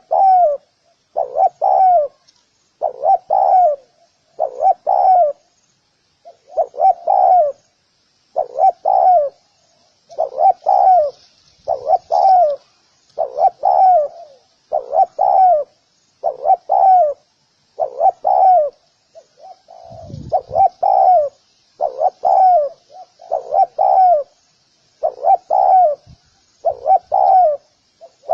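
Spotted dove cooing, repeating its short phrase of several falling coos about every two seconds. A brief low rumble comes about twenty seconds in.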